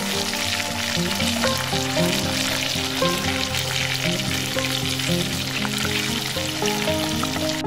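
Fish pieces frying in hot oil in a clay pot: a steady, dense sizzle, with a spatula stirring among them.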